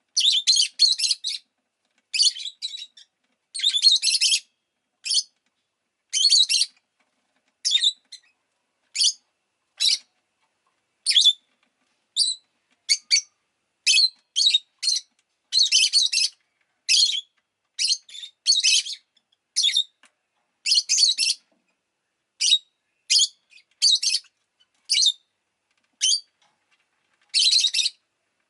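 Rosy-faced lovebird chirping: short, sharp, high chirps in quick clusters, about one cluster a second, with brief gaps between.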